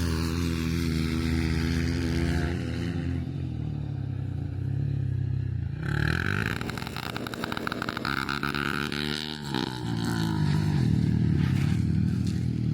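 Enduro motorcycle engine under way on a dirt track, its revs falling about two seconds in and climbing again near the end, with rattling and rushing noise in the middle as the bike is ridden.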